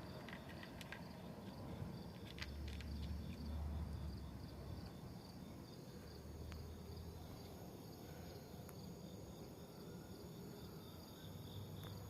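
Crickets chirping steadily and faintly, with a low hum in two stretches and a few soft clicks.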